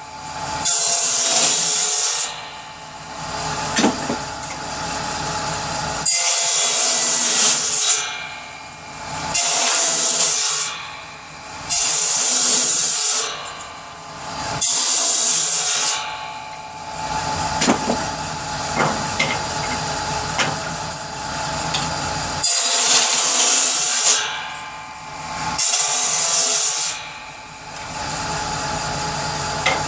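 Power saw cutting wood into kindling, one short cut after another. Each cut is a burst of high hiss about a second and a half long over the saw's steady running sound, with a longer pause between cuts partway through.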